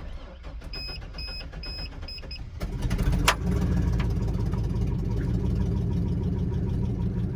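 Truck engine cranked and starting about two and a half seconds in, with a quick blip of revs, then idling steadily on fresh oil after an oil change. Its exhaust is blown out, and the idle carries a tick that the owner takes for a lifter or an exhaust manifold leak.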